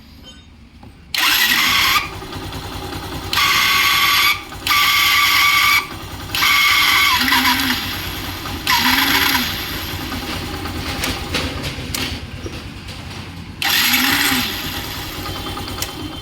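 Yamaha Saluto motorcycle's electric starter pressed several times, each press a loud harsh whining grind, with the engine running in between. The noise comes from the starter's bearing, whose grease has dried out from heat.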